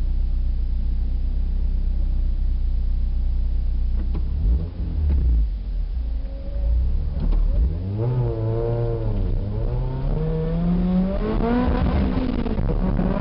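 Car engine idling with a steady low rumble, then launching hard about two-thirds of the way in: the revs climb, waver as the car gets going, and climb again to hold high under full acceleration on an autocross course.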